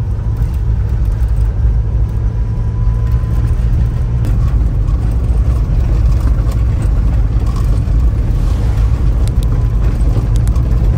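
Very old Land Rover Defender being driven, its engine and drivetrain making a steady low rumble.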